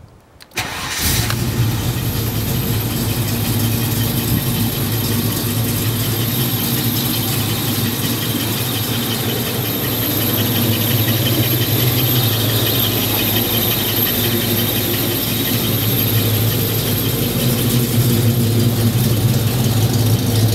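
Holden 308 (5.0-litre) V8 in a VC Commodore starting on the key, catching about a second in, then idling steadily. A thin, high steady whine runs over the idle.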